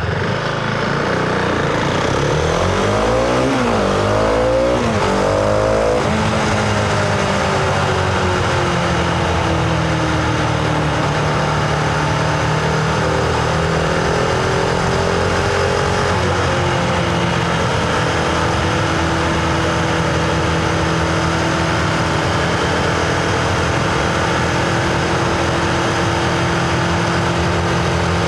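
Husqvarna Vitpilen 701's single-cylinder engine accelerating hard, its pitch climbing and dropping back with each upshift over the first six seconds. It then settles into a steady cruising note with wind rush.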